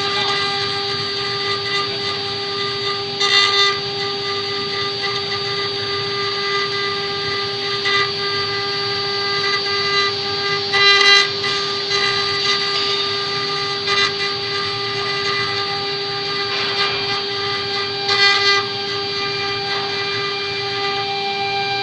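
CNC wood-engraving router's spindle running with a steady whine while it carves a relief in wood, with short louder flare-ups of cutting noise several times.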